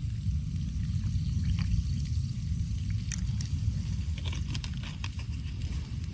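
Campfire crackling: scattered sharp pops and clicks, most densely about two-thirds of the way through, over a steady low rumble.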